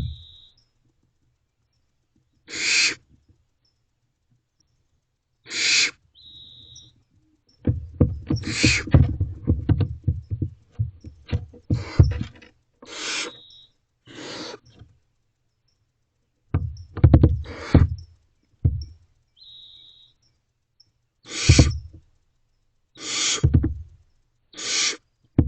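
Barn owlets giving their long, hissing screech calls, about ten separate hisses at uneven intervals. Low scuffling and knocking runs between them in the middle and again later, and there are a few brief high whistly notes.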